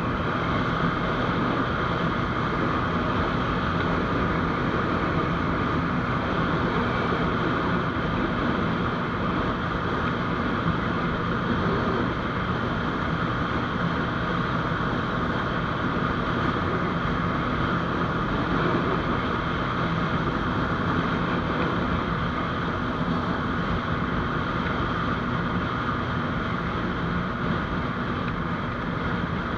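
GPX Demon GR200R motorcycle riding along at a steady pace: engine running evenly under a constant rush of wind noise.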